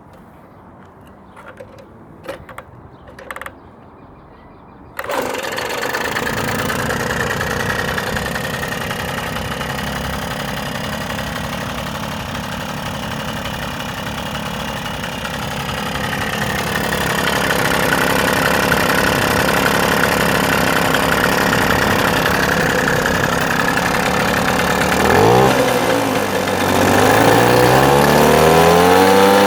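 Rebuilt Puch ZA 50 two-stroke moped engine with a 15 mm carburettor, a few light clicks and then the engine catching suddenly about five seconds in and running steadily. Near the end its speed dips briefly, then rises to a higher, steady speed.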